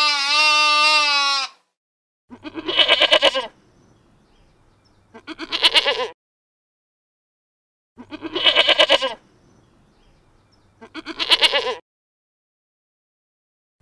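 A sheep's long bleat ends about a second and a half in. Then a young goat bleats four times, each a quavering call about a second long, with two to three seconds between calls.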